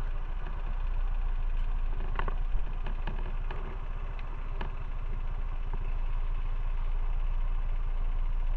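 Motorcycle engine running steadily, with a few short clicks or rattles between about two and five seconds in.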